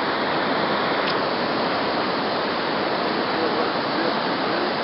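Flooded river rushing past in a steady roar of high, fast water.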